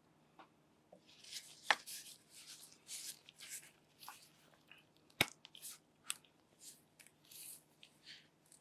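Handling noises: irregular crinkling and rustling, with two sharp clicks about a second and a half in and again past the middle.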